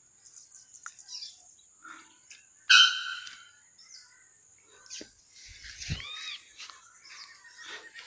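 Birds chirping and calling: scattered short chirps and arching call notes, the loudest a sharp call a little under three seconds in and another about six seconds in.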